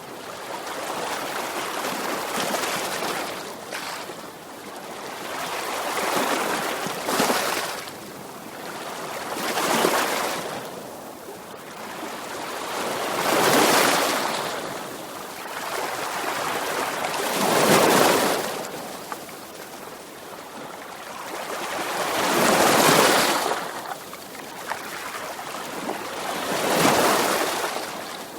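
Sea waves breaking and washing up a shore, a wash of surf that swells and ebbs about every four to five seconds, some waves louder than others.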